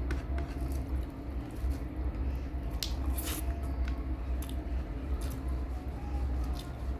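Person eating rice mixed with drumstick-leaf greens and mung dal by hand, with soft squishing and chewing sounds and small clicks over a steady low hum.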